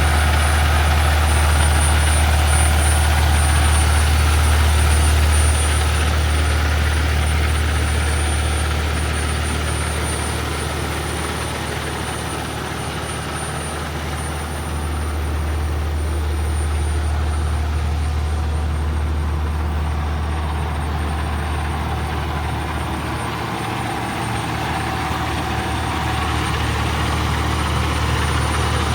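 Heavy diesel truck engine, the 2020 Peterbilt 389's Cummins X15 inline-six, idling steadily with a deep low hum, dipping slightly in loudness midway.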